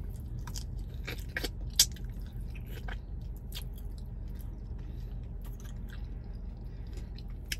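A person chewing a chicken wing close to the microphone: wet mouth clicks and smacks at an uneven pace, with one sharper click about two seconds in. A steady low hum runs underneath.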